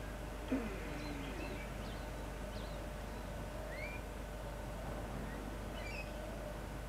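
Scattered short bird chirps over a steady low hum, with one brief louder sound about half a second in.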